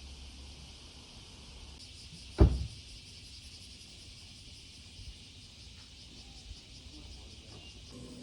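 Insects buzzing steadily in a high, finely pulsing drone, with one loud, low thump about two and a half seconds in.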